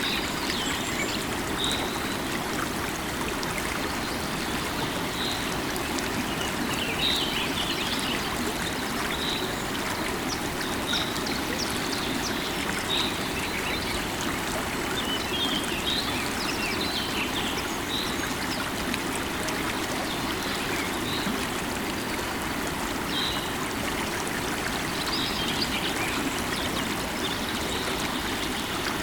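Steady rush of a flowing river, with a bird's short high chirps repeating every second or two over it.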